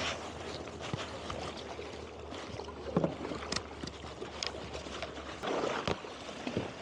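Kayak paddles dipping and splashing through lake water as the two paddlers stroke hard, with a few louder strokes about three seconds in and again near the end.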